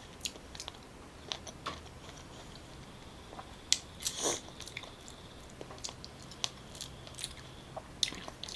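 Close-miked chewing and biting of juicy fresh pineapple: soft wet crunches and mouth clicks. A louder crunch and squelch come about four seconds in.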